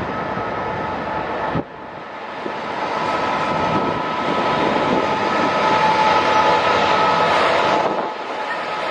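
A train running close by: a steady whine over engine and rail noise. The sound drops off abruptly about a second and a half in, then builds up again.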